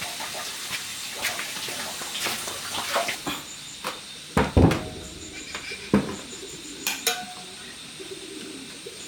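Splashing water with a run of short knocks and clatter, the loudest knocks about four and a half seconds in.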